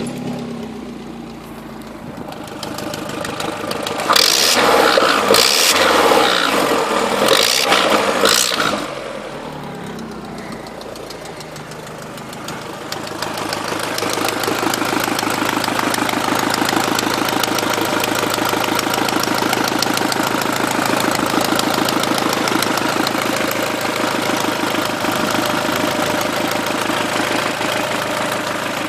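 Vauxhall VXR engine running just after a start-up. It has a loud, uneven stretch from about 4 to 9 seconds in and goes quieter after that. From about 13 seconds in a steady, fast-pulsing noise from the engine bay sets in and keeps going: the odd start-up noise the owner is trying to track down.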